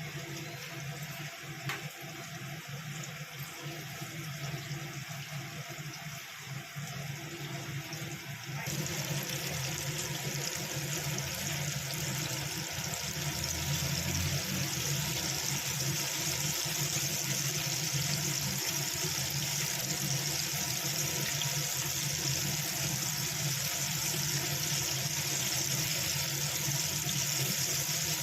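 Hot oil sizzling as flour-coated chicken pieces deep-fry, a steady hiss that jumps up sharply about nine seconds in and stays loud, as a fresh batch goes into the oil.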